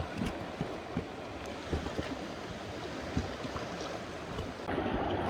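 Sea water lapping and washing at the shore, with scattered small clicks and knocks; the wash grows louder near the end.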